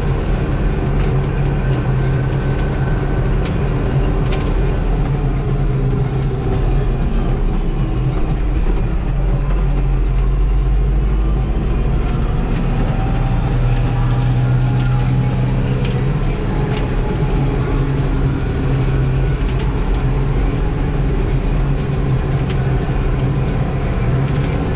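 New Holland T4030 tractor's diesel engine running steadily under way, its pitch shifting a little about halfway through.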